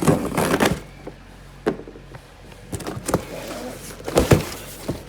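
A tire box being opened and handled: scraping and rustling at first, then a few sharp knocks and thumps, the loudest about four seconds in.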